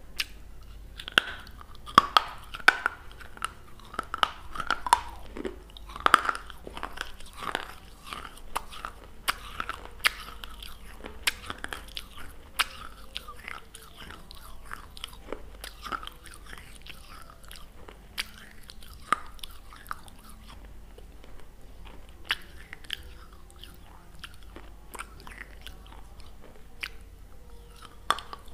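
Close-up eating sounds: a person bites and chews something hard and dry, with loud crunches in the first several seconds, then slower, quieter chewing.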